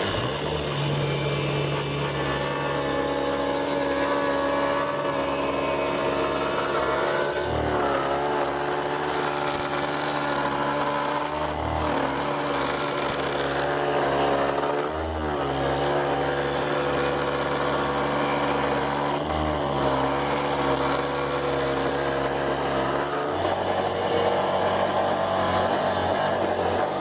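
Angle grinder running under load, a steady motor whine over grinding noise, its pitch sagging briefly several times as it bites into the work.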